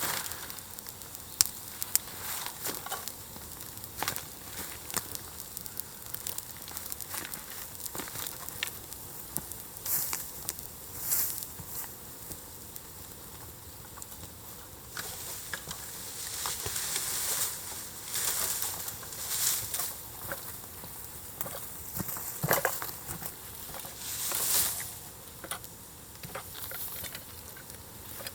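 Wood fire burning on embers: scattered sharp crackles and pops, with spells of hissing about halfway through and again near the end.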